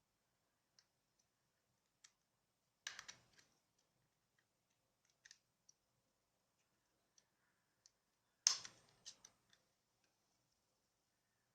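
Scattered light clicks and taps of a smartphone's plastic parts and small repair tools being handled. There are two louder clattering clusters, about three seconds in and about eight and a half seconds in, with faint single ticks between them.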